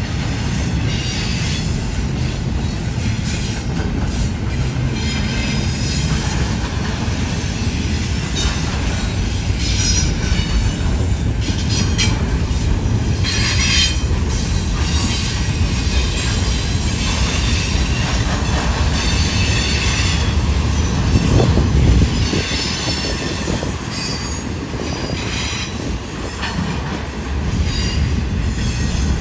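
Double-stack container well cars of a Union Pacific intermodal freight train rolling past: a steady rumble of steel wheels on rail, with high-pitched wheel squeal coming and going. The rumble swells briefly about 21 seconds in.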